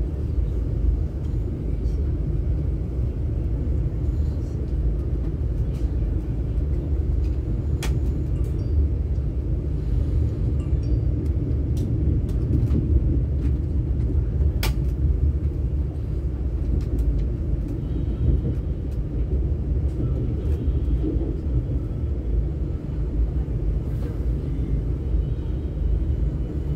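Steady low rumble of a CRH high-speed train running along the line, heard inside the passenger cabin. Two sharp clicks stand out partway through.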